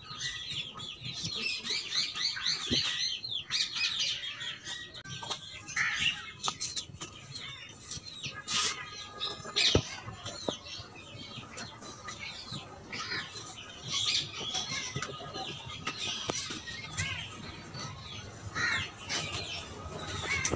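Birds chirping and twittering in quick runs, busiest in the first few seconds, with a few short knocks in between.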